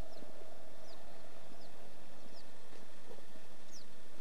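Birds giving short, high, downward-slurred chirps, about one every second, over the steady noise of a vehicle driving along a road.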